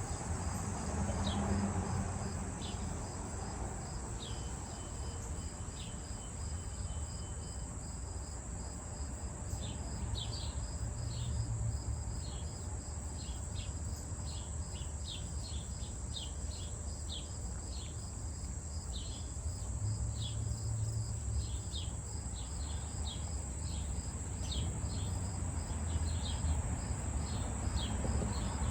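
Evening chorus of crickets: a steady high buzz with a fast pulsing trill under it, and short high chirps scattered through, coming thicker in the second half. A low rumble runs beneath.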